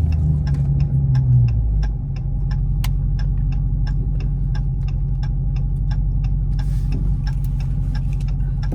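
Supercharged V8 of a 2023 Dodge Charger Hellcat on its stock exhaust, droning steadily at low revs while cruising; the drone eases slightly about two seconds in. A regular run of light ticks, about three a second, goes on over it.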